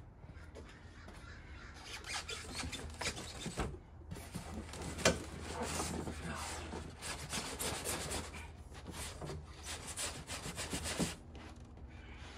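Cardboard and foam packaging scraping and rustling in irregular strokes as table saw parts are pulled out of the shipping box, with one sharper knock about five seconds in.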